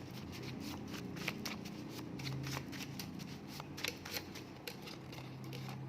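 Divination word cards being shuffled and handled by hand: a quick, irregular run of light paper slaps and clicks.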